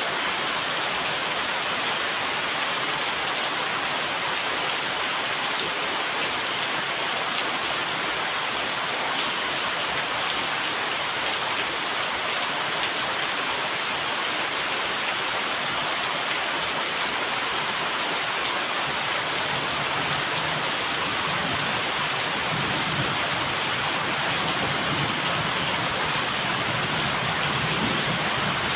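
Steady, even rainfall pouring down. About two-thirds of the way in, a low rumble of distant thunder comes in under it.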